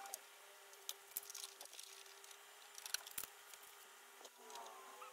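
Faint scattered clicks and taps of small parts being handled, over a steady faint hum, with a couple of short high whining glides at the start and near the end.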